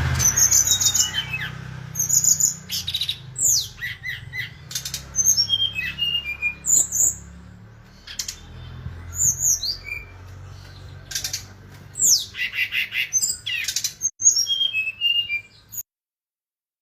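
Brown-chested jungle flycatcher (sikatan rimba dada coklat) singing gacor, in full voice: a fast, varied run of short high chirps, down-slurred whistles and rasping notes. The song cuts off abruptly about a second before the end.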